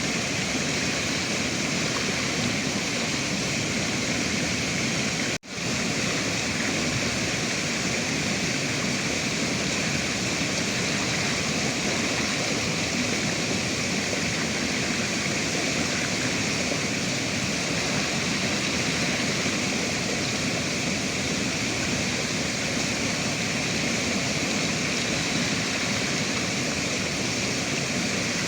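Rushing river water, a steady, loud rush that briefly drops out about five seconds in.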